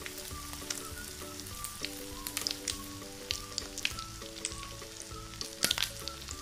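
Sardine-and-egg omelette frying in hot oil in a pan: a steady sizzle with scattered crackling pops, one louder pop near the end. Soft background music plays underneath.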